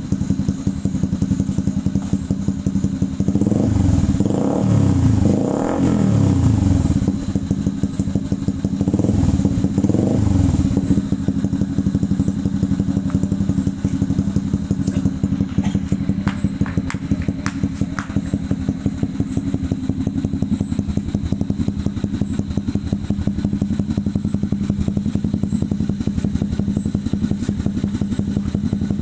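Honda CB150R's 150 cc single-cylinder engine breathing through an aftermarket SC Project-style exhaust, idling steadily. A few quick throttle blips rise and fall between about three and six seconds in, with another about nine to ten seconds in, before it settles back to idle.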